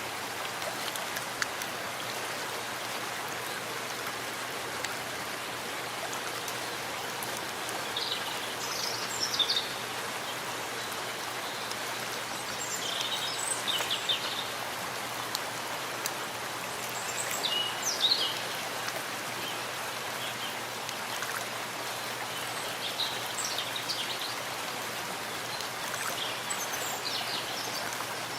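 Steady rain falling in a forest, a continuous even patter, with short high bird calls breaking through every few seconds.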